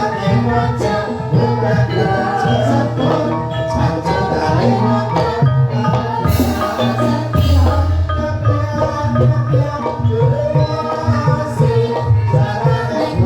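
Ebeg dance accompaniment from a Javanese Banyumas-style ensemble: tuned percussion plays a busy interlocking melody over steady drum strokes. Two short hissy crashes come about halfway through.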